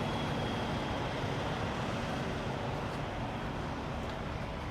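Semi truck's diesel engine running at a steady idle, an even drone with a faint low hum.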